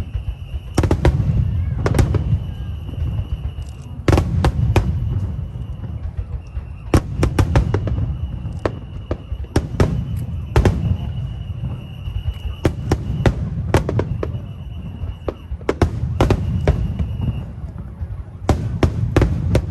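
Aerial fireworks bursting: many sharp bangs in irregular clusters, some in quick runs, over a continuous low rumble of shells going off.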